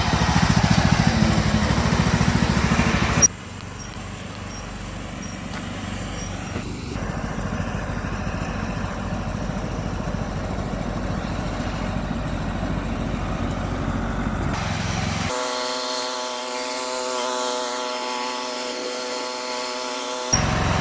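An engine running steadily. The sound changes abruptly in loudness and tone about three seconds in and again about fifteen seconds in, where a steady whine of even tones takes over.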